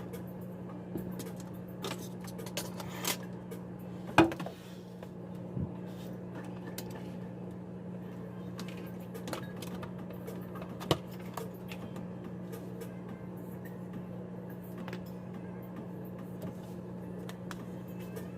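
Scattered clicks and light knocks of small parts and tools being handled on a workbench, the sharpest about four seconds in, over a steady low hum.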